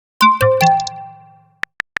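A chat-message notification chime sound effect: a cluster of ringing bell-like tones struck about a fifth of a second in and dying away over about a second. A few quick soft typing ticks follow near the end.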